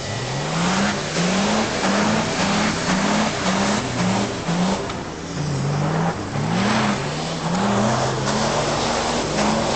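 Fiat Panda 4x4's small petrol engine revving hard and easing off over and over, each rev rising quickly and dropping back about twice a second, with a slower, lower stretch about halfway through.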